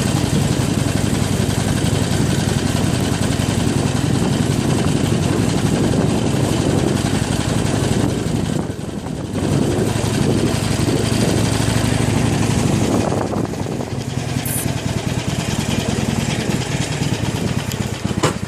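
Harley-Davidson Iron 883's air-cooled 883 cc V-twin engine running steadily. The sound dips briefly just before halfway and runs a little lower for the last few seconds.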